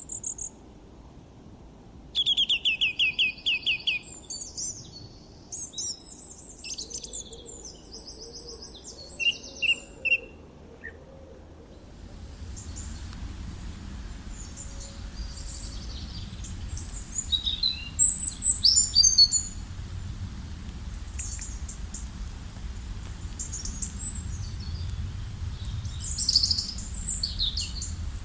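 Songbirds singing: clear, quickly repeated chirping phrases for about ten seconds, then, after a sudden change about twelve seconds in, scattered chirps over a low steady rumble.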